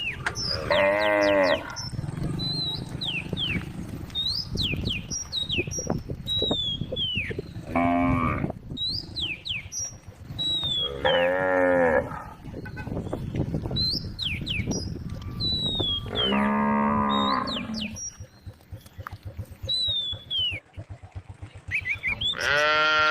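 Cows mooing: several long, drawn-out moos a few seconds apart, the last starting near the end, with short high falling whistled calls between them.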